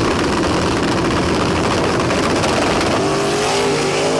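Stick-shift drag race car at full throttle down the strip, the engine pitch climbing and then dropping at a gear change near the end before climbing again.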